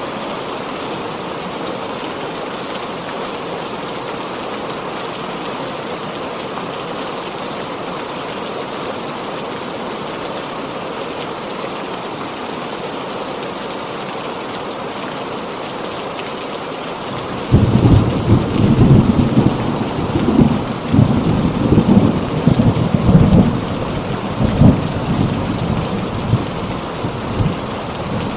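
Heavy rain falling steadily. About two-thirds of the way in, a loud thunderclap breaks in suddenly and keeps rumbling and crackling over the rain.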